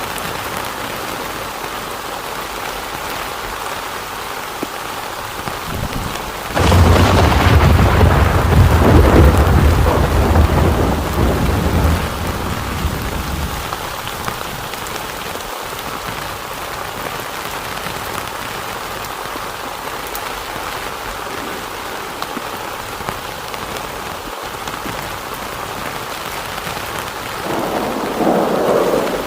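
Steady heavy rain. A sudden, loud clap of thunder comes about six and a half seconds in and rumbles on for several seconds before dying away. A shorter, fainter swell of sound follows near the end.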